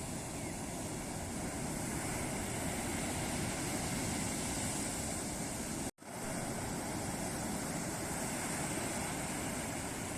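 Ocean surf breaking and washing on a beach in a steady, continuous rush. The sound cuts out completely for a split second about six seconds in.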